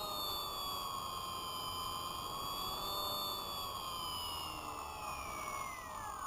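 Spy Hawk RC plane's electric motor and propeller whining steadily, the pitch wavering slightly, then falling away over the last couple of seconds.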